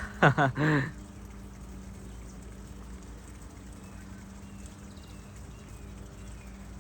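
Steady low outdoor rumble with a constant hum, and a few faint bird chirps about halfway through; a brief burst of a person's voice at the very start.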